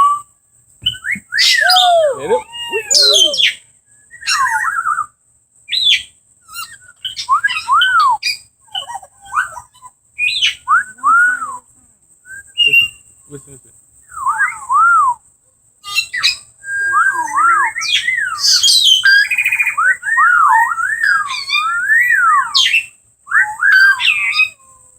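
Captive parrots calling: a string of whistled, arching calls that rise and fall, mixed with sharp squawks. They come in bursts with short pauses and grow nearly continuous in the second half.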